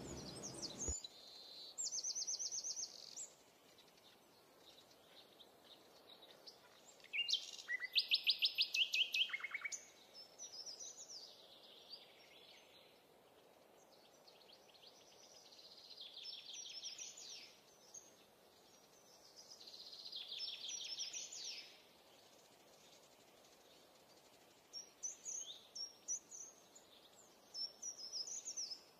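Birds singing: several separate trilled phrases of fast repeated high notes, the loudest about seven seconds in, with short chirps near the end.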